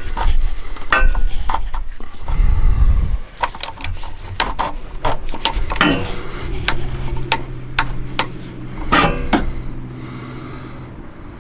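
Irregular clicks, knocks and scraping of metal tools and parts being handled during an oil change. A steady low hum comes in about six seconds in.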